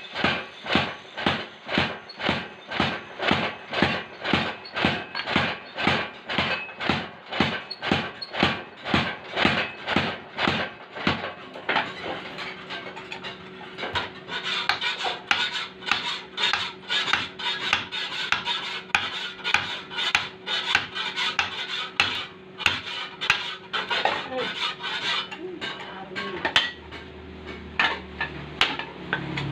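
Metal being hammered at a blacksmith's forge: sharp ringing strikes, about two a second and very even at first, then less regular. From about twelve seconds in a machine hums steadily under the blows.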